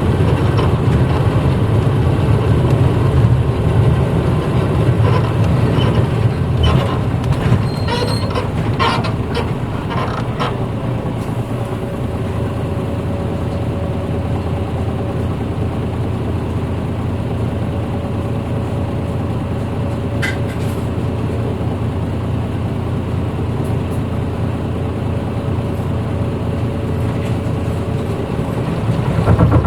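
Cabin running sound of a 1994 Hino Blue Ribbon U-HT2MPAA city bus under way: engine and drivetrain running, heavier for about the first ten seconds with a spell of clicks and rattles, then a quieter, steady run with a faint steady whine. The engine picks up again near the end.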